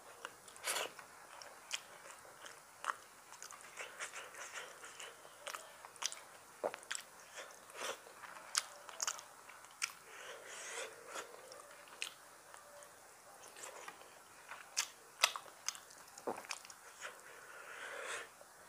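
Close-miked chewing of hand-eaten rice and curry: irregular wet mouth clicks and smacks, with sharp clicks every second or so.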